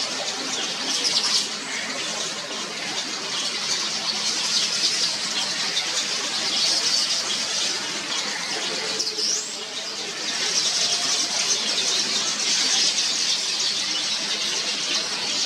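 A colony of yellow weaver birds calling all at once: a continuous chorus of many rapid, high chattering notes, with a brief rising whistle about nine and a half seconds in.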